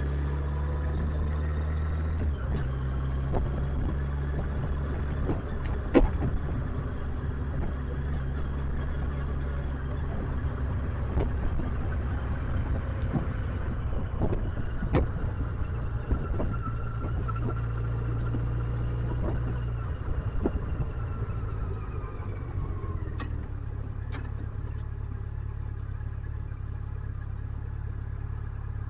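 Motorcycle engine running under way, its pitch stepping up and down with throttle and speed. Scattered sharp clicks and knocks come through, the loudest about six seconds in.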